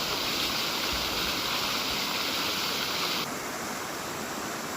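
Rushing water of a mountain stream or waterfall, a steady even rush; its hissing upper part drops away abruptly about three seconds in.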